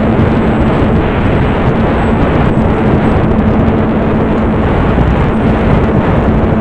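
Strong wind buffeting the microphone: a loud, unbroken rumbling rush, with a faint steady hum underneath.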